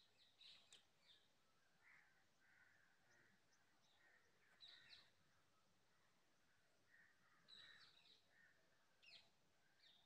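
Near silence with faint bird chirps and calls now and then, loudest about halfway through and again near the end.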